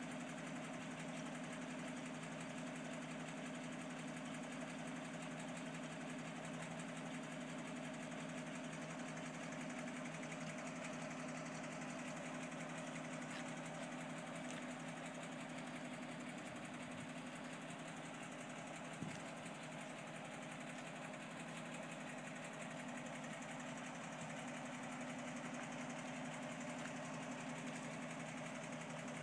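1962 Toyota Land Cruiser FJ40's straight-six engine idling steadily, with one short click about two-thirds of the way through.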